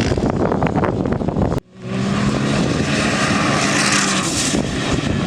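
Off-road vehicle engine sound, rough and uneven, then a sudden cut about one and a half seconds in to another engine running at a steady, even pitch.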